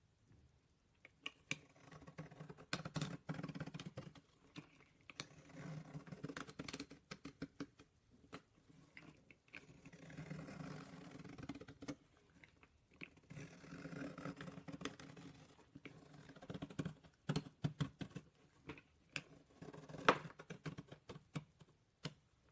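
Slime being squeezed and kneaded by hand, making runs of wet crackling with many sharp clicks and pops. One pop about twenty seconds in is louder than the rest.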